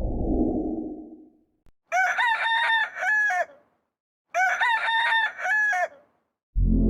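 A rooster crowing twice, each crow about a second and a half long with a short gap between them. Before the crows a low rushing sound fades out, and near the end a deep booming hit begins.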